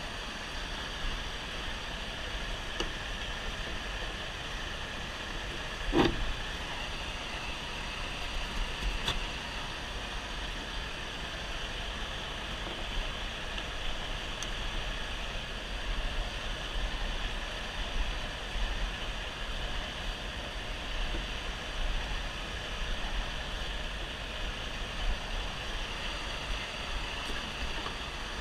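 Steady low rumble and road noise from a semi truck, heard from inside the cab, with a single thump about six seconds in.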